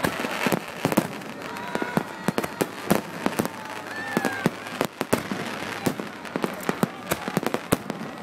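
Aerial fireworks shells bursting close overhead: a dense, irregular barrage of sharp bangs, several a second, over continuous crackling.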